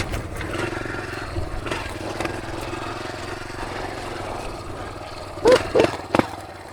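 Dirt bike engine running at a low, steady speed, easing off and getting quieter toward the end. A few short, loud sounds break in a little over five seconds in.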